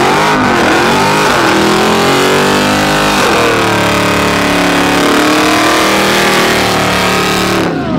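Car engine revving hard at high rpm, its pitch swinging up and down with the throttle over a loud wash of noise. In the second half the pitch holds, slowly falling, and the sound drops away sharply near the end.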